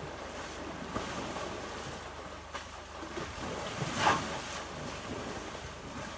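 Water sloshing and wind noise, with one short, louder splash about four seconds in.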